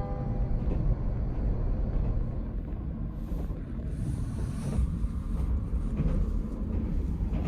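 Steady low rumble of a train, with wind buffeting the microphone.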